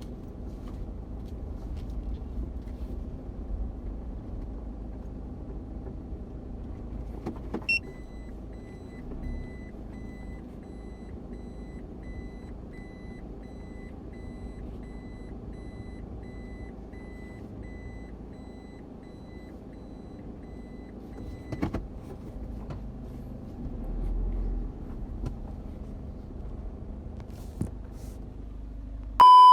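Steady low rumble of a car's engine running, heard from inside the cabin. A thin, steady high tone sounds for about fourteen seconds in the middle, and a short, loud beep comes right at the end.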